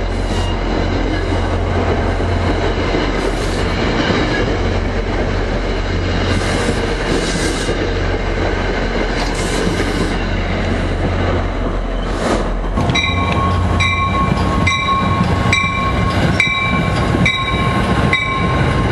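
NJ Transit commuter train passing close by at speed, a steady rumble and rush of wheels and cars. About thirteen seconds in, a regular beat of a little under two per second sets in over a steady high tone.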